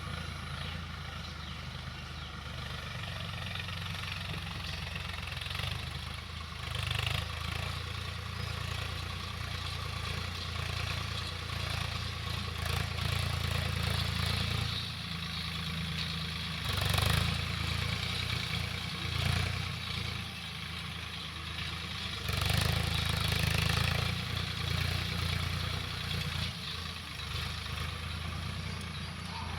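Swaraj tractor's diesel engine running steadily, with several louder surges along the way.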